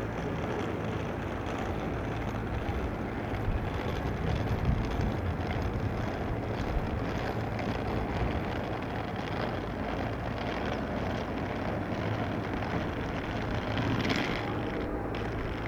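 Airbus H145 helicopter running: a steady, even engine noise with a low hum.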